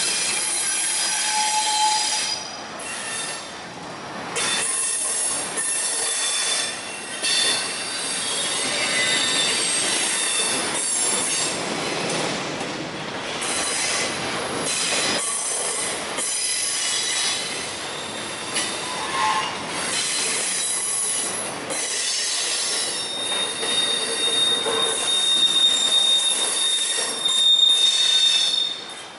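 Norfolk Southern double-stack intermodal freight train rolling by, its steel wheels squealing against the rails in high, shifting tones over the steady rumble of the cars. Near the end one high squeal holds steady for about five seconds.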